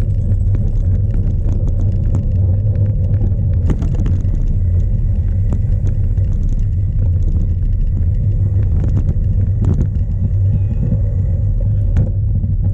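Heavy wind buffeting on a cyclocross bike's onboard camera microphone, mixed with the rumble of knobby tubeless tyres over rough ground. Now and then the bike knocks and rattles over bumps.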